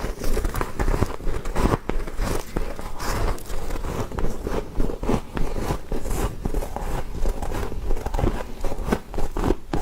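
Frost being bitten and chewed close to the microphone: a dense, irregular run of crisp crunches and crackles.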